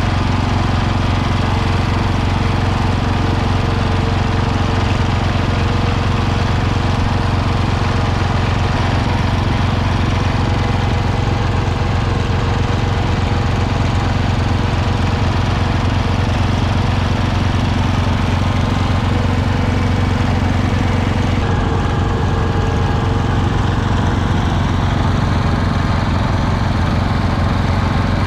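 Garden tractor engine running steadily, with an abrupt change in its sound about three-quarters of the way through.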